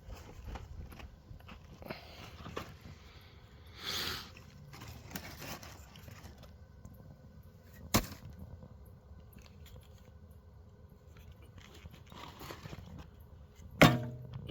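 A person eating chips: quiet, irregular chewing and handling sounds, with two sharp knocks, one midway and a louder one near the end.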